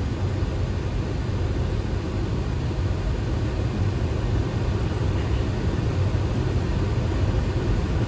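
Steady flight-deck noise of a Boeing 737 on final approach: a constant low rumble with a hiss of rushing air over it.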